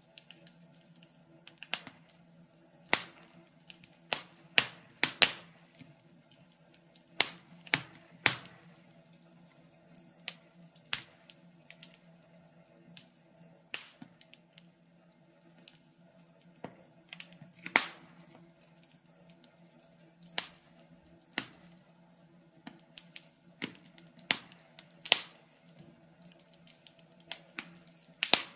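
Wood fire in a fireplace crackling, with irregular sharp pops and snaps every second or so over a faint steady hum.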